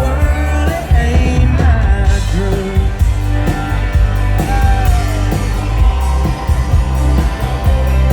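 Live country-rock band playing loudly with a singer: heavy bass, a steady drum beat and a wavering vocal line over the band.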